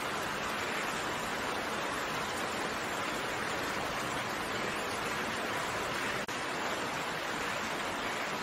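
Steady rain falling, an even dense hiss of raindrops, broken by a split-second dropout about six seconds in.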